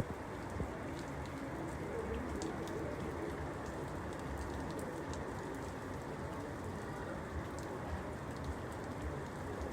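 Steady rainfall, with scattered individual drops ticking and a few sharper drop taps on top of the even patter.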